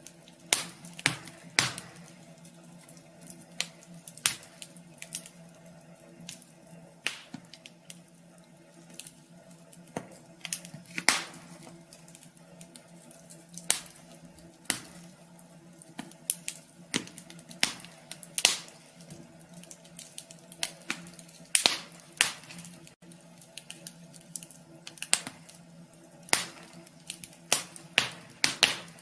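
Wood fire crackling in a wood stove: irregular sharp pops and snaps, several every few seconds, over a faint steady hum.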